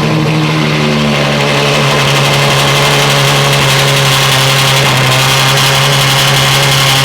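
Ferrari 812 Superfast's V12 idling loudly and steadily just after starting, through a straight-piped Ryft exhaust, echoing inside a garage.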